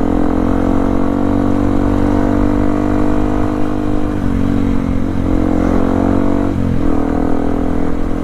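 Yamaha WR155R's single-cylinder engine running steadily under way, its note dipping briefly twice, about four and six and a half seconds in.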